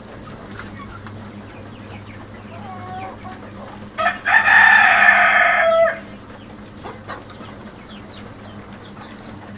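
A rooster crows once, about four seconds in: a single loud call of about two seconds that drops in pitch at the end. Softer hen clucking comes before it.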